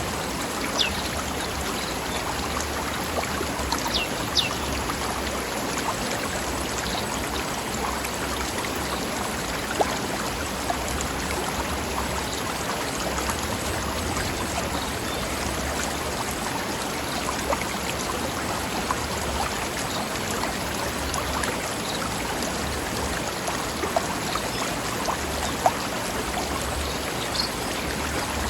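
Mountain stream running over rocks: steady rushing, babbling water with occasional sharper splashes.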